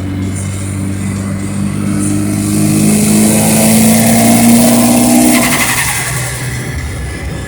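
Mitsubishi Galant VR-4's turbocharged engine accelerating hard, pitch climbing for about five seconds as the turbo spools with a rising hiss, then the driver lets off and the engine note drops away.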